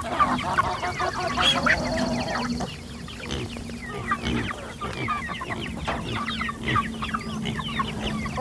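A flock of month-old chicks peeping and clucking at once, many short calls overlapping without a break, as they crowd a freshly filled feed tray.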